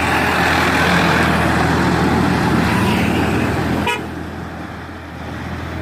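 Tractor diesel engine running steadily while hauling a loaded sugar cane trolley, with a heavy rushing noise over it. About four seconds in there is a brief horn toot, and the sound then drops quieter.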